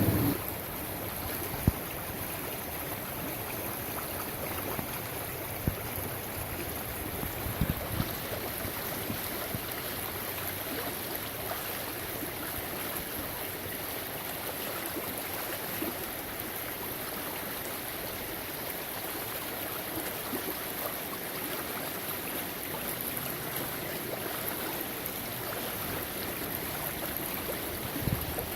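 Creek water running steadily over a shallow streambed, with a few brief sharp taps about two, six and eight seconds in.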